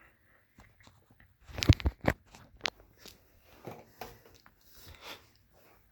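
Handling noise from a box fan being moved and set up: a quick cluster of sharp knocks about two seconds in, another click a little later, then scattered light clicks and rustles. The fan is not yet running.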